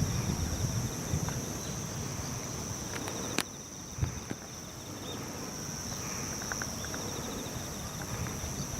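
Insects singing: a steady high-pitched trill, with a second, rapidly pulsing trill a little lower that stops and starts, over a low rumble. A single sharp click comes about three and a half seconds in.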